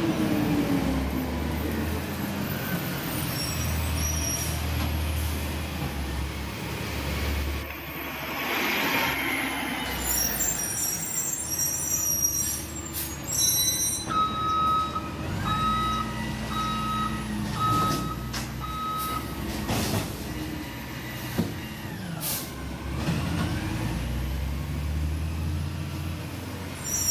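Recycling garbage truck's diesel engine running, with a hiss of air about a third of the way in and, a little past the middle, its reverse alarm beeping five times.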